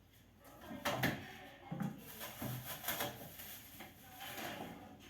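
Refrigerator drawers and shelves being handled: a series of knocks and clatters starting about a second in, then softer rustling.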